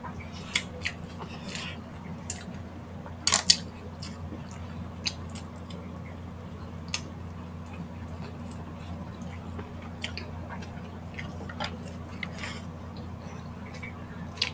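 Close-miked chewing and biting of grilled street food (hotdog and barbecue skewers): scattered wet mouth clicks and smacks, with a louder cluster of them about three and a half seconds in. A steady low hum runs underneath.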